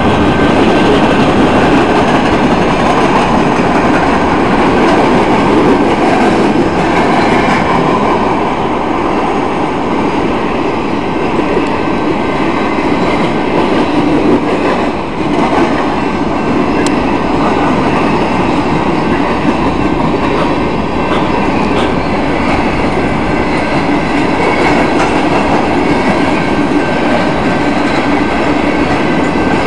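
Railroad cars of a passing train rolling by, a loud, steady noise of wheels on the rails that carries on without a break.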